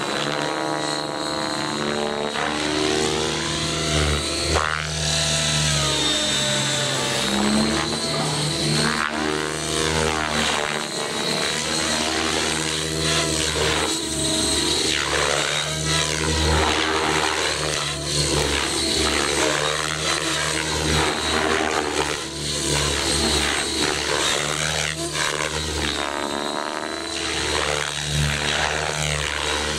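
Align T-Rex 700 DFC electric RC helicopter in flight: a steady high-pitched motor whine and rotor sound that sweep up and down repeatedly as it manoeuvres and passes back and forth.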